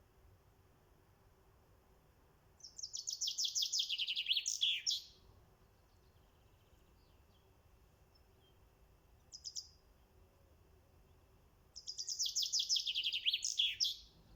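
A songbird singing two song phrases, each a fast trill of repeated notes that falls in pitch and ends in a short flourish, with a brief burst of notes between them.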